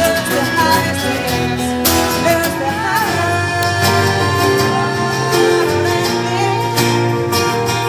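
A live pop band playing a song, a woman singing over guitar and drums.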